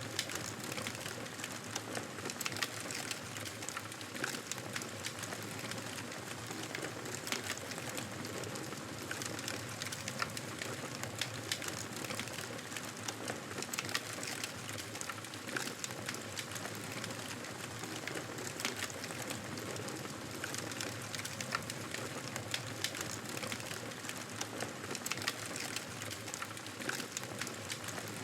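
Campfire burning, steady crackling with many small sharp pops scattered throughout.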